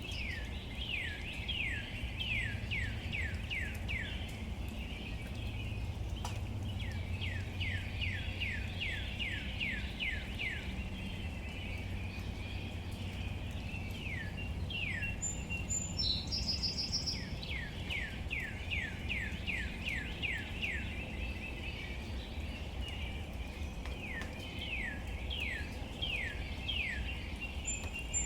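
A bird sings runs of quick whistled notes, each sliding downward, about three or four a second. There are four runs of a few seconds each, with a short high buzzy call about halfway through. Behind it is a steady outdoor background hiss.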